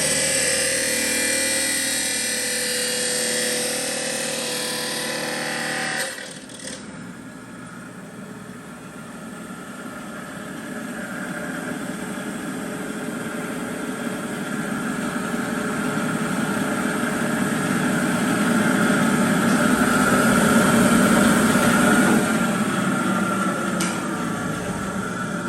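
20-inch abrasive chop saw with a 10 HP three-phase electric motor, running and cutting through steel pipe. The sound drops suddenly about six seconds in, then builds gradually and falls off again near the end.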